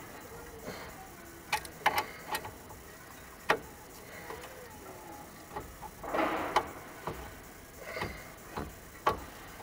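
Scattered sharp metal clicks and knocks of an adjustable wrench working a rusted, seized brake caliper guide pin, with one short rough rasp a little past the middle.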